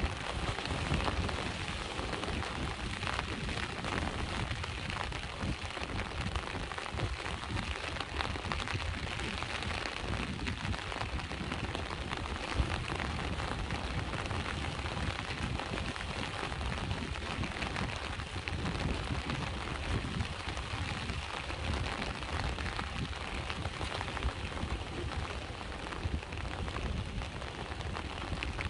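Steady rain falling, a dense even patter with a low rumble underneath.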